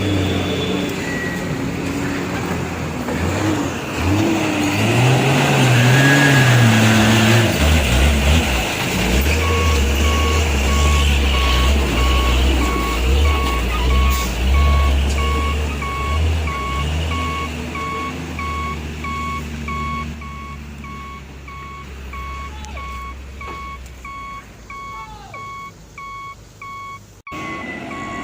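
Truck engine running, its pitch rising and falling for the first several seconds, then settling into a steady low rumble. About a third of the way in, a reversing alarm starts beeping about twice a second over the engine and keeps going until the sound cuts off abruptly just before the end.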